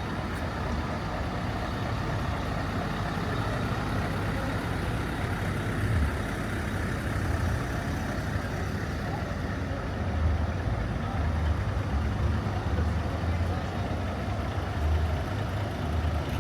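Heavy diesel truck engine idling with a steady low rumble that grows stronger about ten seconds in, over the background hubbub of an outdoor crowd.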